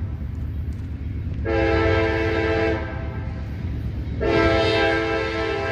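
Locomotive air horn sounding two blasts: one of a little over a second, starting about a second and a half in, and a longer one starting about four seconds in and still held at the end. A steady low rumble from the approaching train runs underneath.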